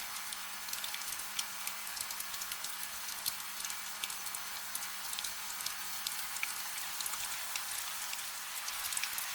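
Steady rain: an even high hiss with many small drops ticking on a surface, no thunder. A faint steady low hum runs underneath.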